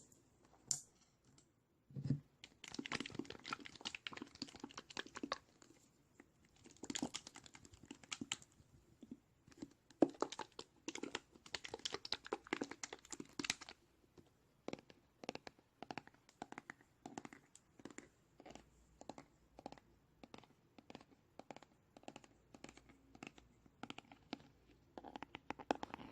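Close-miked ASMR tapping on an object: quick flurries of taps and scratches, then a long, even run of single taps about twice a second, with another flurry near the end.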